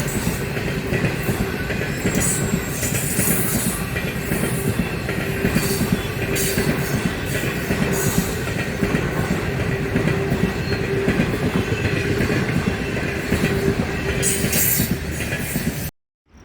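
Train running along the track close by: steady running noise with a constant hum, and scattered clicks and brief high squeals from the wheels. The sound cuts off suddenly near the end.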